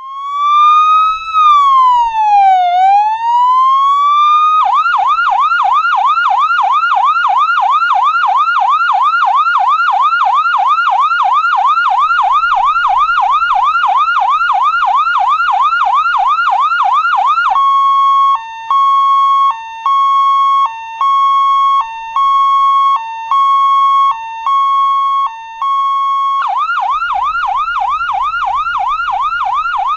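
Electronic emergency siren running through its patterns. It opens with a slow wail that rises, falls and rises again. It then switches to a fast yelp of about three sweeps a second, then to a steady tone broken by short lower blips about once a second, and back to the fast yelp near the end.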